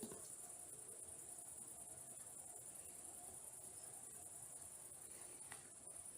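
Faint, steady high-pitched chorus of crickets trilling without a break.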